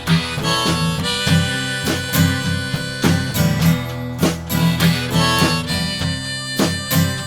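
Instrumental break in a country-blues song: a harmonica playing held lead notes over guitar and a steady drum beat.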